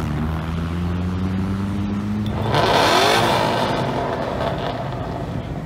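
A sports car's engine running with a low steady note, then revving hard about two and a half seconds in as the car accelerates away. The revs climb, then the sound fades off as it pulls away.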